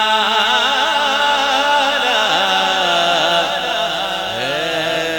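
Male voice reciting an Urdu naat, drawing out one sung syllable as a long ornamented note with wavering melisma. The pitch dips about two seconds in and glides up near the end into the next word, 'raha'.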